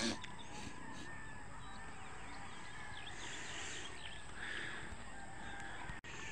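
Outdoor ambience: faint scattered bird calls over a steady background hiss.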